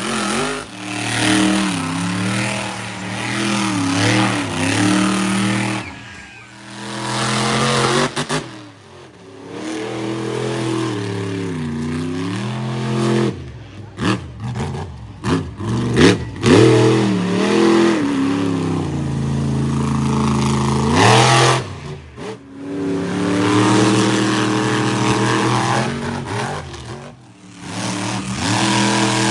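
Monster truck engines revving hard, their pitch repeatedly rising and falling with the throttle, in a string of short clips that cut off abruptly several times.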